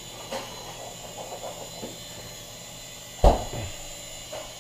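Swann Micro Attack indoor RC helicopter's small electric motors and rotors whining steadily at a high pitch, with a few light knocks and one loud thump a little past three seconds in.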